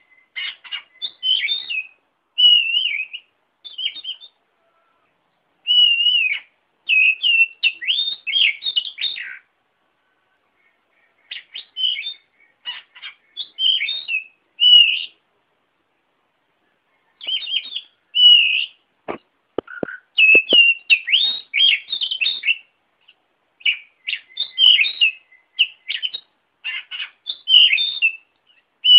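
Oriental magpie-robin (kacer) singing: rapid, varied whistled and chirping phrases in bursts with short pauses between them. A few sharp clicks come about two-thirds of the way through.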